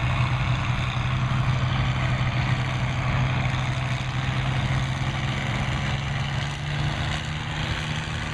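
Farm stock pulling tractor engine running steadily with a strong low hum, getting a little quieter near the end.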